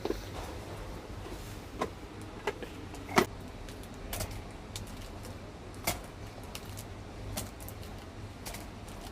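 Toys being handled: scattered light clicks and knocks, about seven in all, the loudest a little over three seconds in, over a low steady hum.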